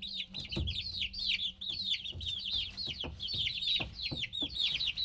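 A brood of baby chicks peeping: many rapid, overlapping short cheeps that fall in pitch.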